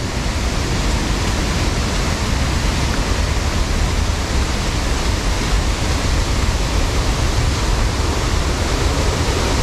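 Waterfall rushing: a steady, loud wash of falling water with a deep rumble underneath.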